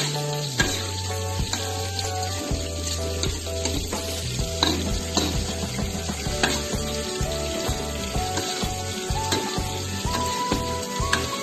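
Tomato sauce and vegetables sizzling in an aluminium wok while a metal spatula stirs and scrapes the pan, with clicks and scrapes throughout. Background music plays underneath.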